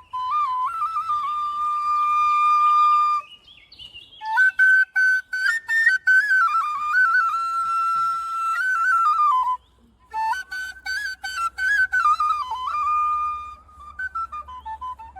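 Solo flute melody, music. It plays in long phrases of held and stepped notes, breaking briefly after about three seconds and again after about nine and a half seconds.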